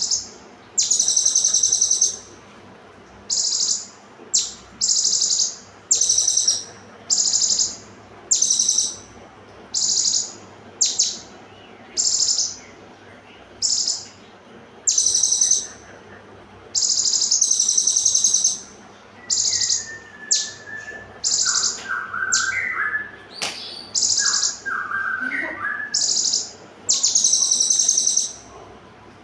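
Konin songbird singing in rapid, tightly packed high-pitched bursts, each about half a second to a second and a half long, repeated every one to two seconds. A lower, fainter call joins in between about two-thirds and seven-eighths of the way through, with a single sharp click in the middle of it.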